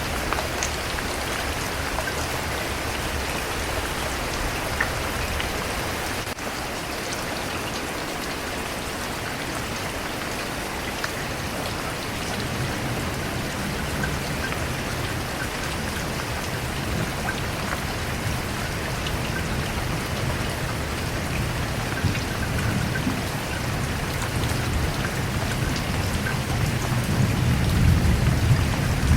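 Steady rain with scattered drop ticks. A low rumble swells in the second half and is loudest near the end.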